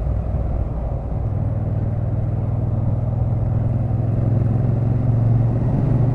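Motorcycle engine running at motorway speed under wind and road rumble. There is a slight dip about a second in, then the sound grows gradually louder as the bike picks up.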